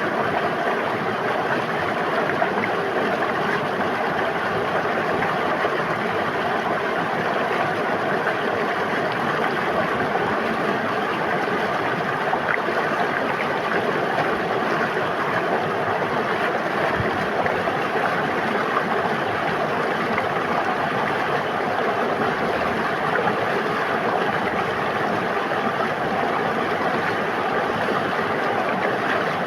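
River water flowing in a steady, unbroken rush with a fine burbling texture.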